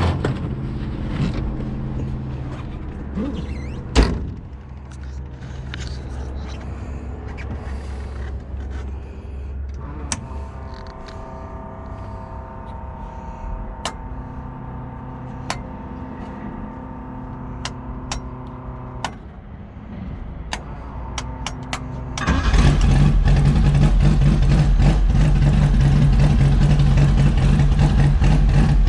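Jaguar XK120 race car's twin-cam straight-six engine running steadily at idle, with a few sharp clicks. About 22 seconds in it suddenly becomes much louder and stays that way.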